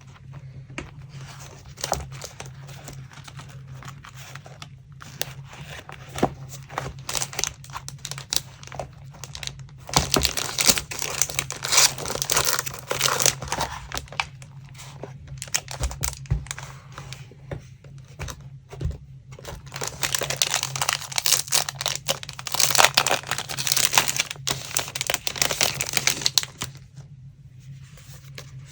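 Paper crinkling, rustling and tearing as collage papers are handled, with louder, denser bouts about a third of the way in and again past the middle. A low steady hum runs underneath.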